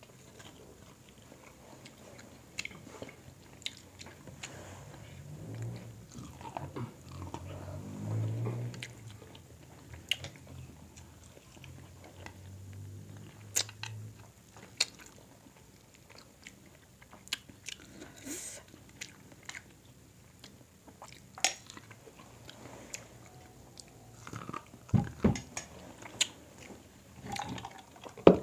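Close-miked chewing, biting and wet mouth sounds of two people eating a seafood boil of crab, corn on the cob and rice by hand. Short clicks and crunches are scattered throughout, with a louder knock at the very end.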